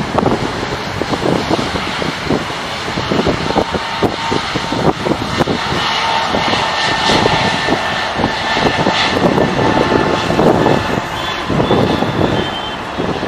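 Airliner engines running loud and steady as the plane passes, with a thin whine over the noise, and wind buffeting the microphone.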